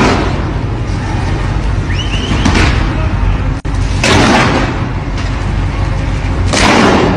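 Rough sea around a container ship: four loud rushing surges of water about every two seconds, over a steady low rumble.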